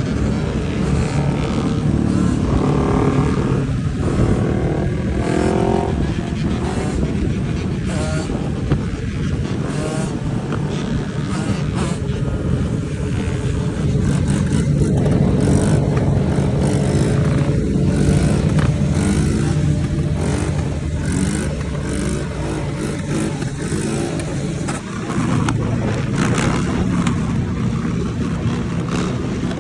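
Dirt bike and four-wheeler engines running and revving, their pitch climbing and dropping with the throttle, several engines overlapping.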